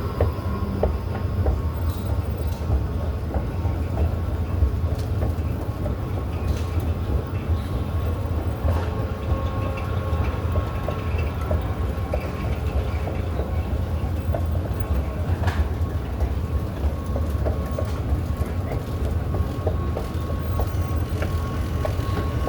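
Metro train running: a steady low rumble with a constant whine and scattered faint clicks from the wheels.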